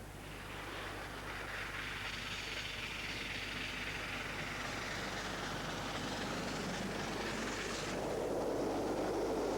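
Steam-hauled train running past, a steady rushing noise that gives way to a deeper, louder rumble about eight seconds in.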